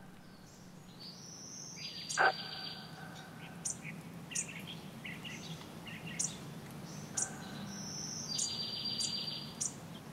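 Small songbirds calling in a conifer forest: scattered short high chirps and two buzzy trills, about a second and a half in and again near the end, over a faint steady low hum.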